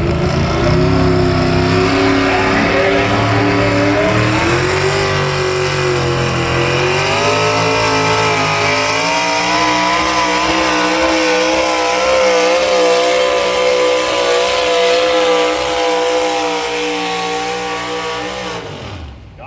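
Competition pulling vehicle's engine at full throttle under load during a pull down the track. Its pitch climbs over the first several seconds, holds high with a wavering note, then drops away near the end as the engine is let off.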